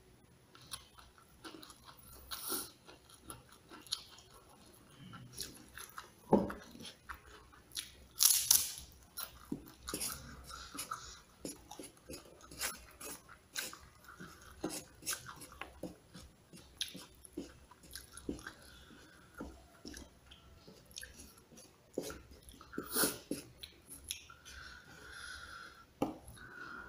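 A person chewing and biting crispy smashed fried chicken with rice: irregular crunches and wet mouth sounds, with a few louder crunches, the loudest about eight seconds in.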